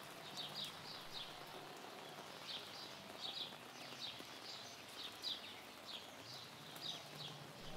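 Small birds chirping in short repeated notes, over a faint, steady outdoor hiss.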